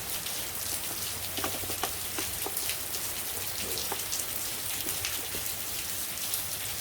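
Steady rain falling, a constant hiss of many small drops hitting a surface, with a few light clicks about one and a half to two and a half seconds in.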